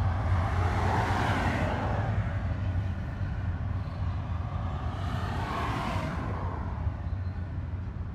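Freight train rolling past: a steady low rumble with two swells of rushing wheel noise, about a second in and again about five seconds in.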